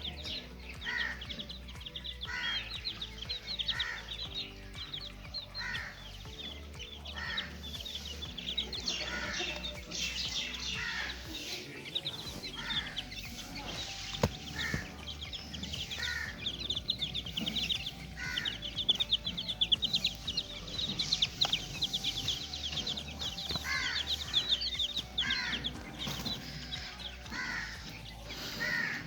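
Chicks peeping in rapid high chirps, with a bird call repeating about once a second, over background music with a steady low beat.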